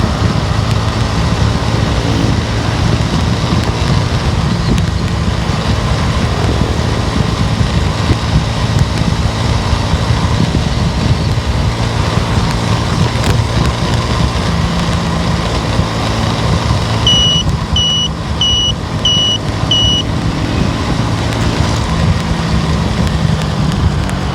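Car driving on the road, a steady low rumble of engine and tyre noise. Partway through come five short, high electronic beeps, about two-thirds of a second apart.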